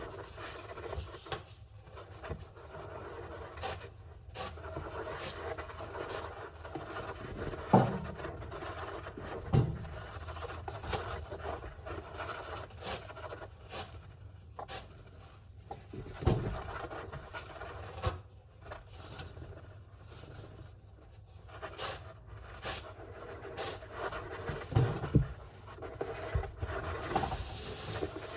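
A hamster scrabbling and scraping in its enclosure, with a few soft low thumps.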